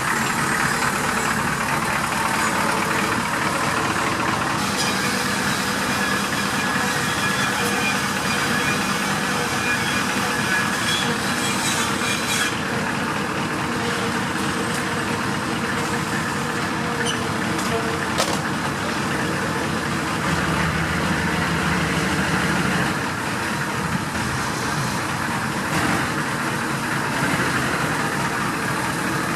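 Squarebody Chevrolet Suburban's engine idling steadily, kept running only for the power steering while the failed 700R4 transmission gives no drive.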